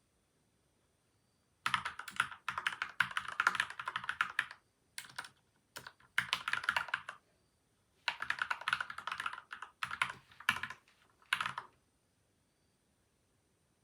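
Typing on a PCL87 mechanical keyboard with lubed Gateron Milky White and Outemu Yellow switches and tape and foam mods, in quick bursts broken by short pauses. The typing starts a couple of seconds in and stops about two seconds before the end.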